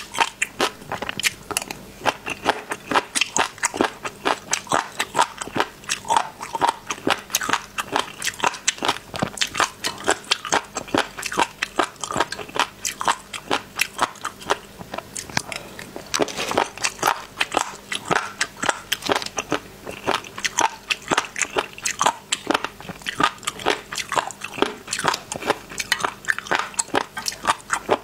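Close-miked mouth sounds of someone biting and chewing spicy razor clam siphons: a dense run of sharp, wet crunches and crackles, many a second.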